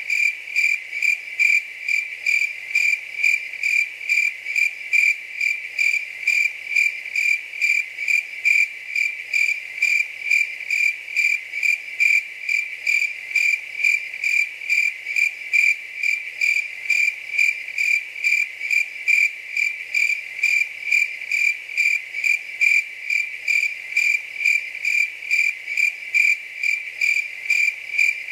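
A cricket chirping steadily, one high, even note repeated about twice a second.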